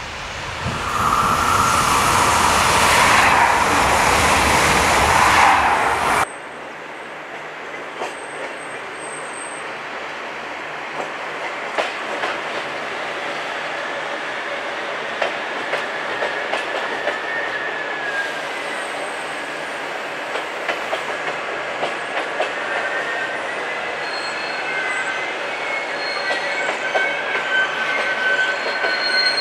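For about the first six seconds, a Régio2N electric multiple unit approaches and passes at speed with a loud rush that cuts off abruptly. Then a twin set of ZTER electric multiple units rolls slowly through the station, wheels clicking over rail joints and, from about halfway, squealing in thin high tones.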